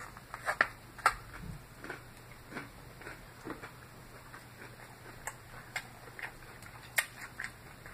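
A person chewing a mouthful of salad close to the microphone: irregular small crunches and wet mouth clicks and smacks, a few of them sharper and louder.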